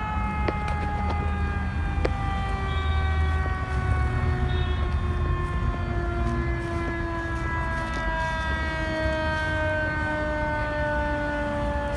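Fire engine siren winding down: one long tone falling slowly and steadily in pitch, over a low rumble.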